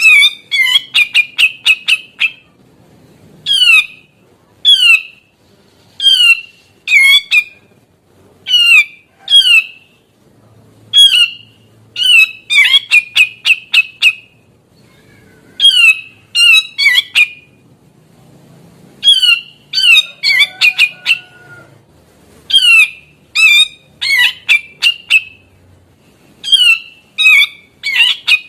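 Grey-cheeked bulbul (cucak jenggot) calling over and over in harsh phrases. Each phrase is a note sliding downward, often followed by a quick run of short chattering notes, repeated every second or two.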